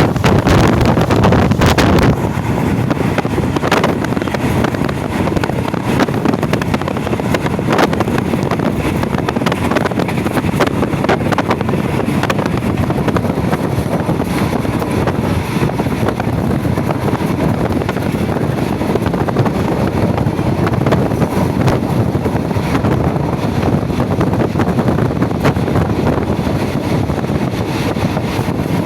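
Passenger train running, heard from on board: a steady rumble of wheels on the rails with wind noise, and irregular knocks and clicks from the running gear. It is louder for the first couple of seconds, then settles.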